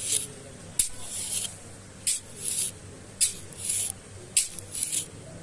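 Rhythmic scraping strokes, roughly one a second, each a short hiss-like rasp.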